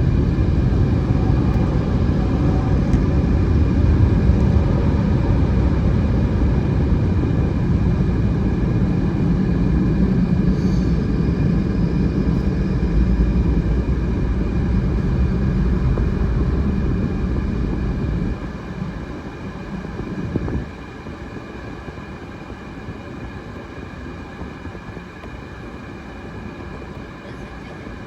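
Loud, steady rumble of automatic car wash machinery heard from inside the car. It eases off about 18 seconds in and cuts down sharply a couple of seconds later to a quieter steady hum.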